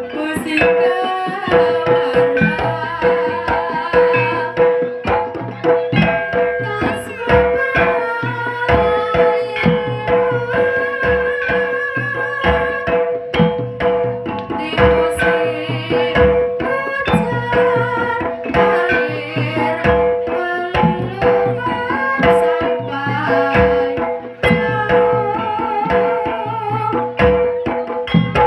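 Live jaranan music: kendang hand drums playing a busy rhythm under a wavering melody line, over one steady held note.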